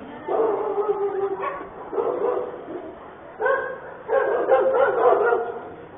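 A dog barking in four drawn-out, pitched calls.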